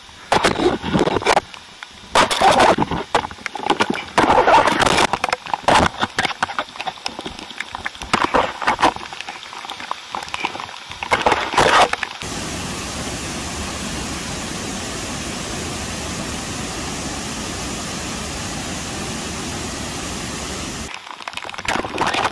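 Water of a waterfall: for about the first twelve seconds, irregular crackling bursts and knocks like spray and splashing hitting the microphone, then a steady, even rush of falling water.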